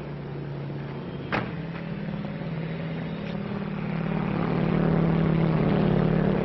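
Propeller airplane engine droning steadily, growing louder toward the end as it comes closer, with one sharp click about a second and a half in.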